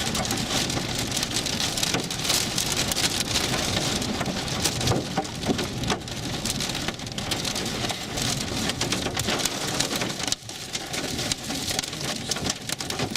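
Thunderstorm rain and hail pelting down: a steady rush packed with many sharp individual hits, which dips briefly about ten seconds in.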